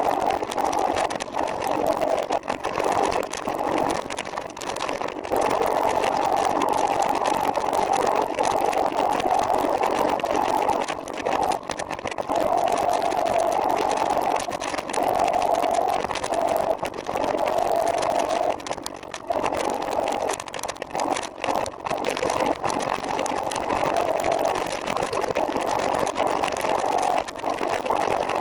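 Steady whirring running noise of a trike on the move, with several brief dips in level.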